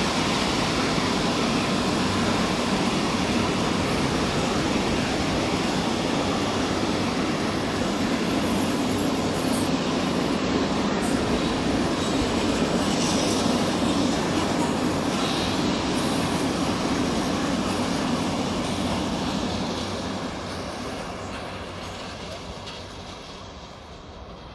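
A train running past on the rails, with a loud, steady rush of wheel and rail noise. It fades away over the last few seconds as the train moves off.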